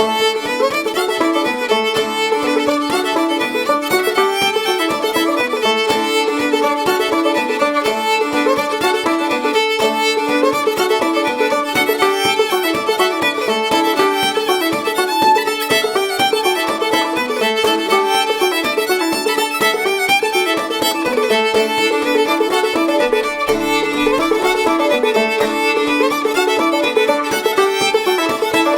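Clawhammer banjo in D tuning and a fiddle playing an old-time Kentucky fiddle tune together at a steady, driving pace, the banjo's quick plucked strokes under the fiddle's bowed melody.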